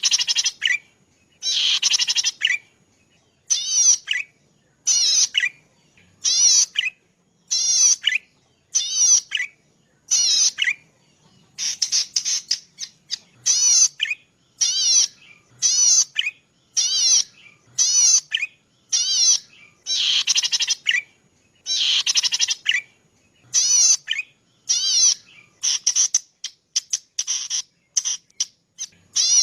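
Cici padi (prenjak padi), a small grassland warbler, singing a repeated song: short, buzzy, fast-trilling high phrases about once every second and a bit, a few of them drawn out longer, with brief silences between.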